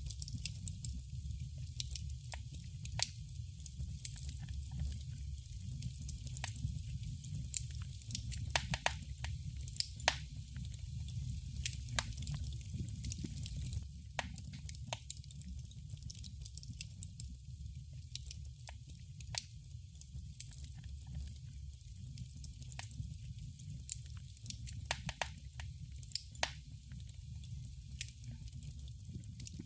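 Wood fire crackling in a fireplace: irregular sharp pops and snaps over a low, steady rumble of the flames, a little quieter from about halfway through.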